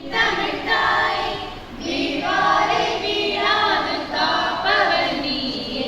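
A group of voices singing together in long held notes, in phrases with short pauses between them.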